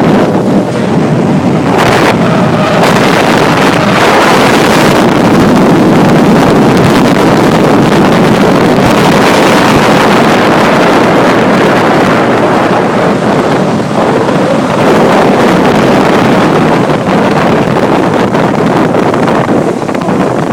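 Sea Ray motorboat underway, its engine and the rushing water blurred into one loud, steady noise, with wind buffeting the microphone.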